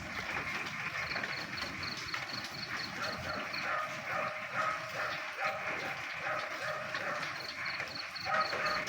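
Frogs croaking during rain: repeated croaks over a steady hiss, clustered in the middle and again near the end. A high, fast-pulsing trill comes in twice, about a second in and again near the end.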